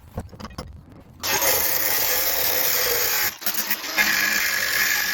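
A few light knocks, then a handheld power tool starts about a second in and runs steadily and loudly. It cuts out briefly past the three-second mark, then runs on with a steady whine.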